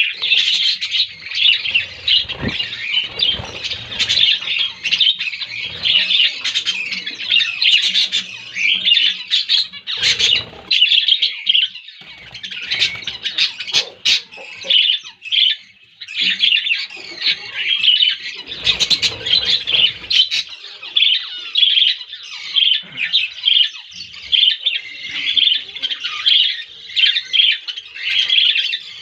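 A colony of budgerigars chattering and squawking continuously, many birds warbling and calling over one another. A few brief rustling noises come about a third and two-thirds of the way through.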